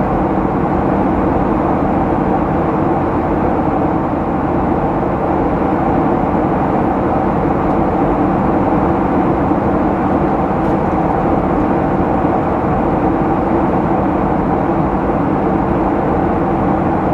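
Steady cabin noise inside a Boeing 737-800 in flight: the rush of air and the drone of its CFM56 jet engines, with a few steady hums over the noise and no change in level.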